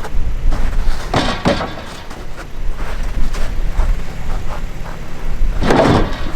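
Old pickup truck's engine running steadily, with loud clunks a little over a second in and again near the end.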